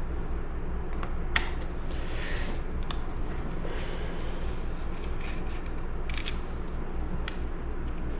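Scattered light clicks and a brief scrape of chainsaw housing parts being handled and pried at during disassembly, over a steady low hum.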